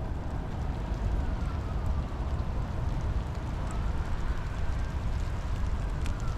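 Steady rain falling, an even hiss over a heavy low rumble, with scattered faint drop ticks. A faint whine slowly rises and falls behind it.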